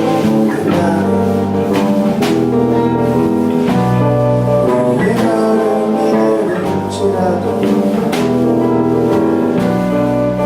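A live rock band playing an instrumental passage: drum kit keeping a steady beat under guitar and bass holding sustained chords.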